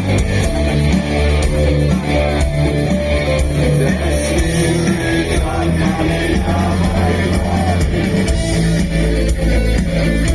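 Live rock band playing through a concert PA system, with electric guitars over a heavy bass and drum low end.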